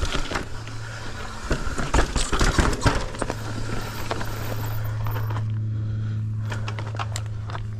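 Mountain bike rattling over rough, rocky trail, with a run of sharp knocks and clatters over the first three seconds. After that a steady low hum sets in, with fewer knocks.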